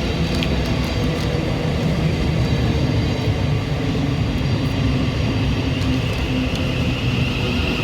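Thameslink Class 700 electric train running with a steady low rumble. A high whine grows stronger near the end.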